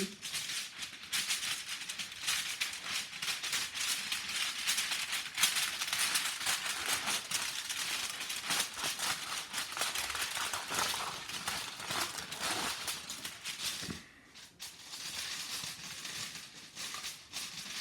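Aluminium foil crinkling and crackling as it is handled and cut with scissors: a continuous rapid crackle of tiny clicks, with a brief lull near the end.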